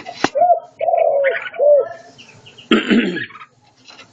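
Spotted dove cooing: three low arched coo notes in the first two seconds, followed by a short rustling noise about three seconds in.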